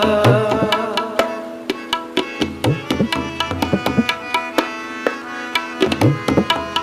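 Shabad kirtan instrumental interlude: tabla plays a quick run of strokes, its bass drum sliding in pitch, over a steady held harmonium chord.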